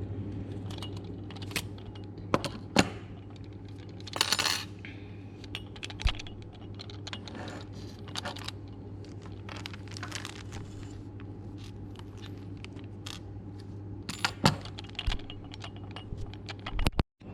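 Scattered light metallic clicks and clinks from small parts of an automatic solder gun being handled and taken apart, with a brief scrape a little after four seconds in, over a steady low hum.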